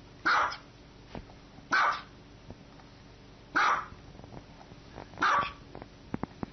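A small white dog barking four times, single sharp barks about one and a half to two seconds apart.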